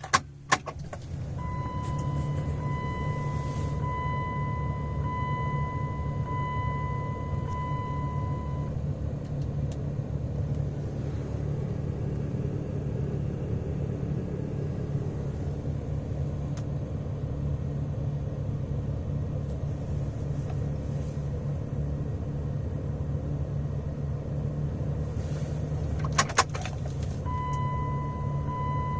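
1999 Dodge Ram 2500's 5.9L Cummins inline-six turbodiesel cold-starting in freezing weather: two sharp clicks, then the engine catches about a second in and settles into a steady idle. A pulsing electronic warning chime beeps for several seconds after the start. It beeps again near the end, after a few more clicks.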